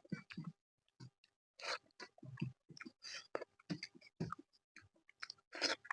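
A person chewing a mouthful of chicken curry with rice and naan close to the microphone, in short irregular bursts with brief pauses.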